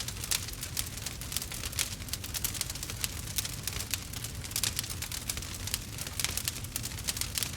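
Wood fire burning with a dense, irregular crackle and frequent sharp pops, over a steady low rumble.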